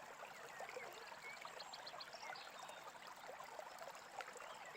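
Faint babbling brook, water running steadily, with a few short, high bird chirps over it.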